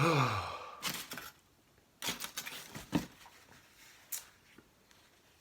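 A man's low, falling moan of enjoyment at the very start, followed by several short bursts of crisp crunching and chewing as he eats a taco.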